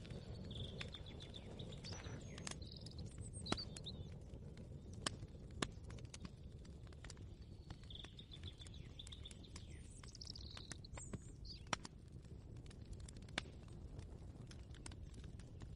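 Small birds chirping faintly, with a quick trilled call near the start and again about halfway, over a low steady rumble and scattered sharp clicks and taps.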